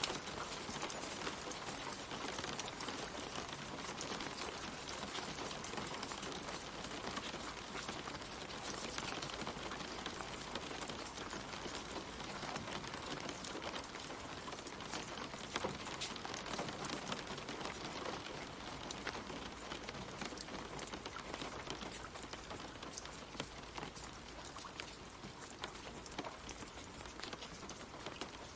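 Gentle rain falling on leaves and puddles: a steady patter of many drops, with individual drop ticks standing out, easing slightly near the end.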